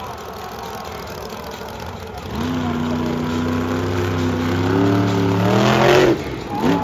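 Monster truck engine opening up about two seconds in and building revs. The note climbs in pitch and grows louder up to a sharp peak near the end, then cuts off suddenly.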